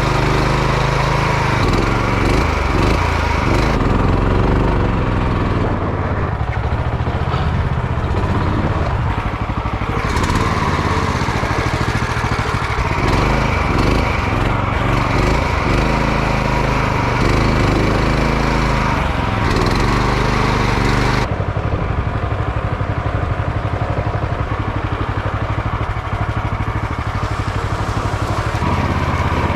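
Jon boat's small outboard motor running under way, its sound shifting several times; about two-thirds of the way through the upper hiss drops away suddenly and the engine runs on with a steadier, pulsing note.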